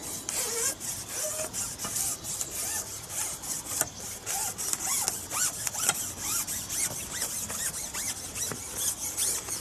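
Insects chirping in a steady pulsing buzz, several pulses a second, with a few faint short chirps lower down.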